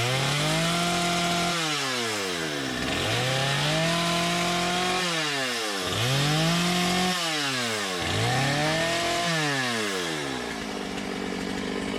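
Chainsaw carving wood, throttled up in four bursts of about a second and a half each, the engine pitch rising to full revs, holding, then dropping back toward idle between cuts.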